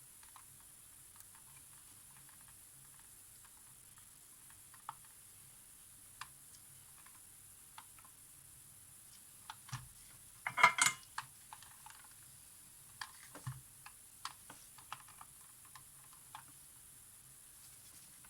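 Small clicks and taps of tools and parts being handled on a workbench, scattered and sparse, with a quick burst of louder clicks a little past halfway.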